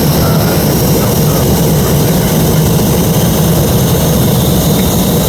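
Steady engine and airflow noise of an Airbus A380 jet heard from inside the cabin, a constant low hum with faint high whining tones. A single word from the ground-control radio comes about a second in.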